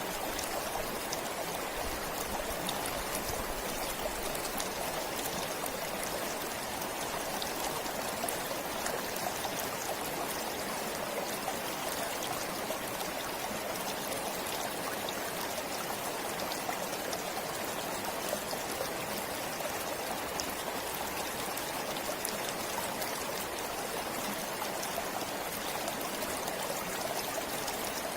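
A forest stream flowing steadily, water trickling and babbling over stones.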